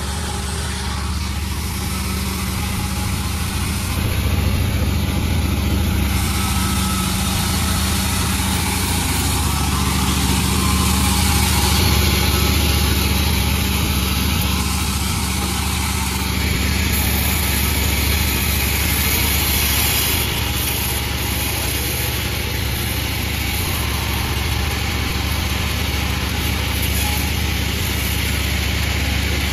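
Panda36 sawmill machine running steadily, a dense mechanical drone with noise across all pitches that swells a little in loudness a few times.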